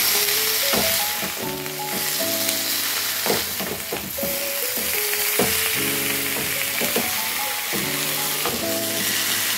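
Raw chicken pieces sizzling in hot oil in a kadai (Indian wok), stirred with a wooden spatula that scrapes and knocks against the pan every second or so. Background music with held notes plays throughout.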